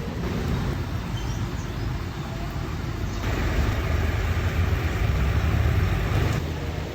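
Bus on a Scania K450CB chassis running with a steady low rumble. A harsher, brighter noise comes in abruptly about three seconds in and cuts off about three seconds later.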